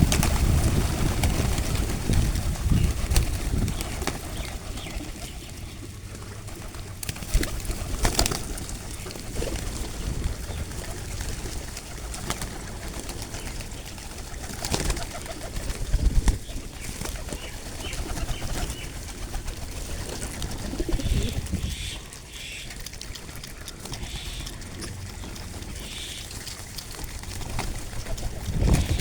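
Pigeons cooing over a low rumble, with a few sharp knocks or wing flaps and some faint short chirps near the end.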